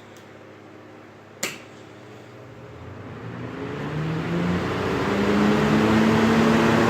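A sharp click about a second and a half in, then two Galaxy box fans spinning up: their motor hum and blade whir rise in pitch and grow steadily louder as they come up to a very fast speed.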